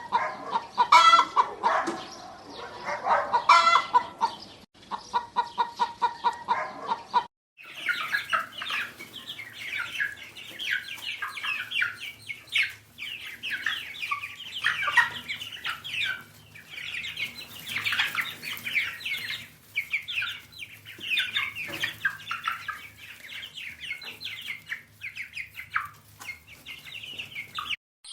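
Chickens clucking in rapid pulsed runs. After a sudden cut about seven seconds in, a brood of young fowl cheeps continuously, with many high peeps overlapping.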